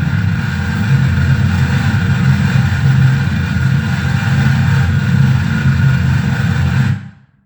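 Harsh noise from a mixer-feedback noise rig: a loud, dense, steady wall of rumbling bass and hiss that cuts off suddenly near the end.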